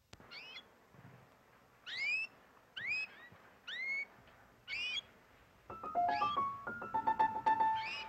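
A bird giving single short rising chirps, about one a second. About six seconds in a keyboard instrument starts playing a run of quick notes.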